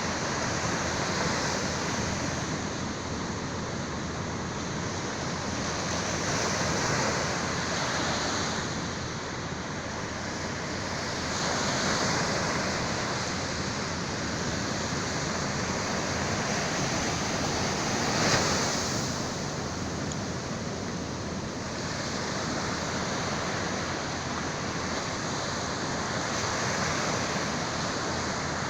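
Sea waves washing onto the shore: a continuous surf hiss that swells and eases every few seconds, with one stronger wave breaking about two-thirds of the way through.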